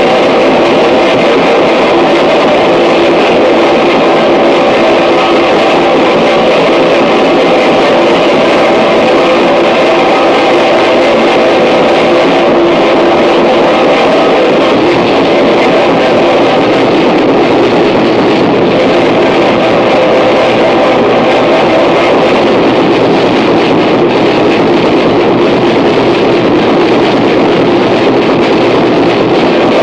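Harsh noise music: a loud, dense, distorted wall of noise with steady droning tones running through it, holding without a break.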